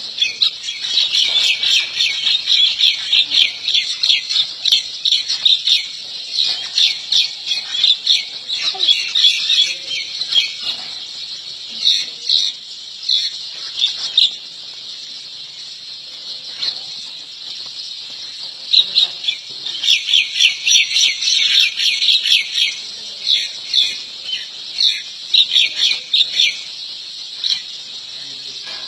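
Birds chirping rapidly in bouts of many short, high-pitched calls, with a quieter lull about halfway through.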